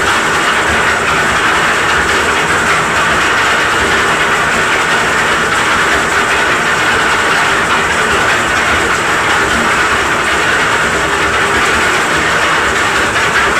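Concrete mixer's engine running steadily, driving the mixer rigged as a hoist to lift concrete.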